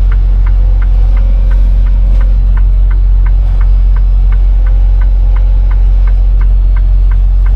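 Semi truck's diesel engine running, heard from inside the cab as a steady low drone, with a regular light ticking about three times a second.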